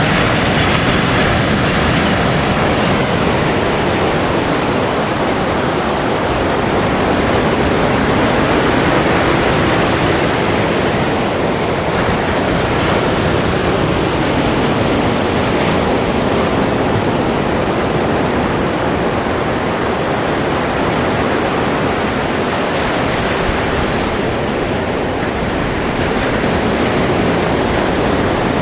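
Ocean surf: a continuous dense rush of breaking waves, swelling and easing slowly.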